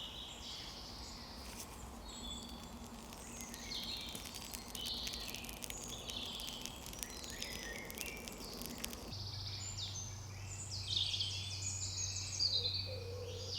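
Woodland birdsong: several birds singing and calling in short, repeated phrases, with faint clicking through the first two-thirds. About nine seconds in, a steady low hum starts under the song.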